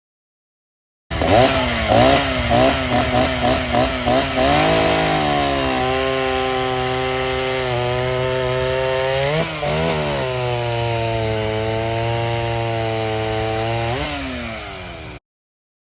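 Vintage two-stroke chainsaw running: the throttle is blipped repeatedly for the first few seconds, then the engine is held at a steady high speed, dips briefly around the middle, and slows near the end before the sound cuts off abruptly.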